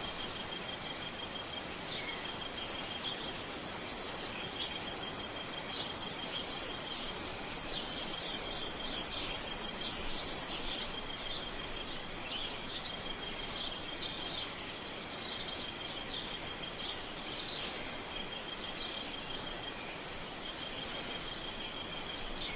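Rainforest insect chorus. A loud, rapidly pulsing high-pitched buzz swells in and stops abruptly about eleven seconds in. Under it runs a steady fainter trill, with scattered short high chirps.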